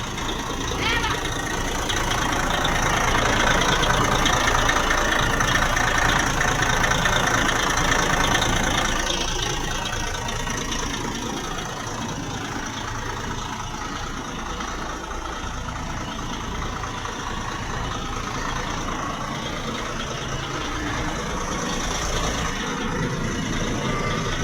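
Coach's diesel engine idling steadily, louder for several seconds early on and then settling to a lower steady level.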